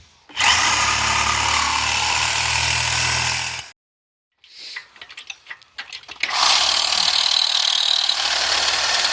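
Power cutting tool cutting through metal parts in a car's engine bay, running steadily in two long runs, stopping about 3.7 seconds in and starting again about 6 seconds in.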